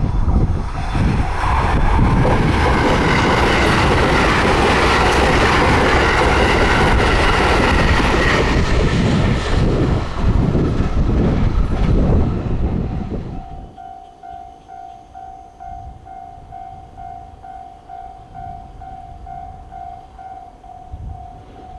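A train passing close by a level crossing: a loud rush with wheel clatter on the rails for about the first thirteen seconds, then dying away quickly. Throughout, the crossing's electronic warning bell rings in quick even pulses, heard clearly once the train has gone.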